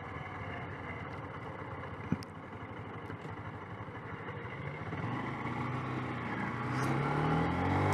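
Small motorcycle engine running low under road and wind noise, then rising steadily in pitch as it accelerates from about four and a half seconds in. A single click about two seconds in.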